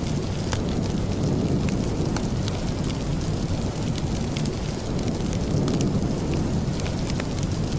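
Steady rain with a deep, continuous rumble underneath and scattered sharp ticks and crackles throughout.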